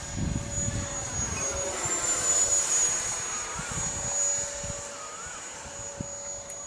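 80 mm electric ducted fan of a radio-controlled Futura jet running with a steady high whine. Its pitch lifts slightly about two seconds in, then holds.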